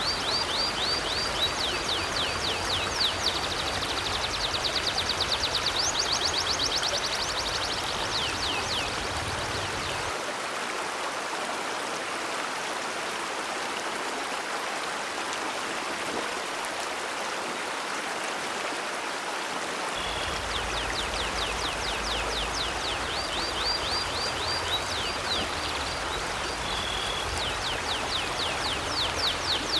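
River water flowing steadily. Rapid high chirping trills run over it for the first nine seconds or so, stop, and start again about twenty seconds in.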